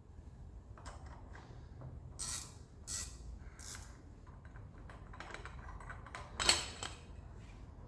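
Hand tools and metal engine parts being handled during an engine teardown: a few short scrapes, some faint ticks, and one sharper metal clank about six and a half seconds in.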